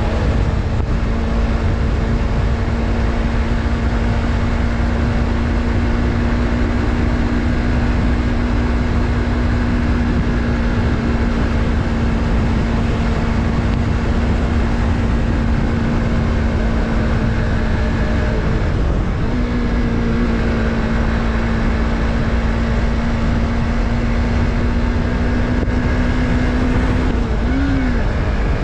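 Yamaha MT-03's 321 cc parallel-twin engine holding a steady note while riding along, over a low rush of wind. About two-thirds through the note breaks briefly and picks up again. Near the end it rises and falls quickly, then settles lower as the bike slows.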